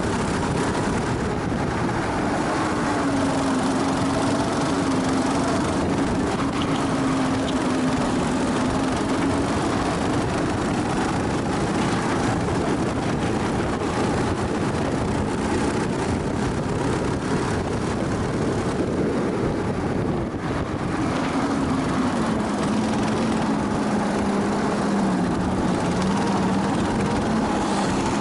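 Go-kart engine heard onboard at racing pace, its revs dropping twice for corners and climbing again on the straights, over steady wind and road noise.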